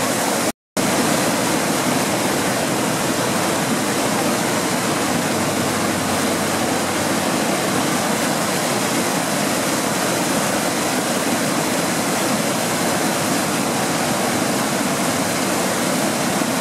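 Steady rush of running water, like a waterfall or stream, with a brief dropout about half a second in.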